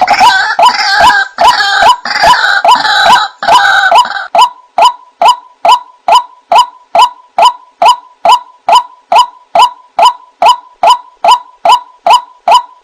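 White-breasted waterhen calling: harsh overlapping calls for the first few seconds, then a steady run of short repeated notes, about two a second.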